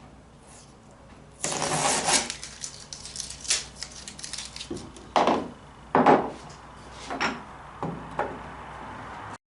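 Hand work fitting an oarlock to a wooden boat with bronze screws: a rasping scrape of about a second starts a second and a half in, then several short sharp scrapes and knocks of wood and metal. The sound cuts off abruptly just before the end.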